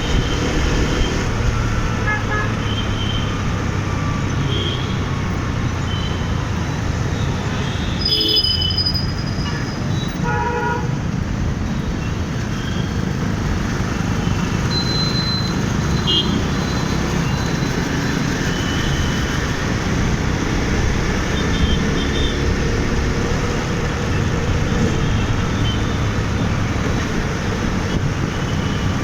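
City road traffic heard from a moving motorbike: a steady rumble of engines and road noise, with vehicle horns honking now and then, most clearly about eight and ten seconds in.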